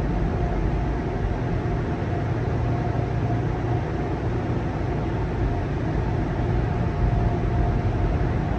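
PDQ LaserWash G5-S touchless car wash running steadily: a continuous noise with a faint, steady whine.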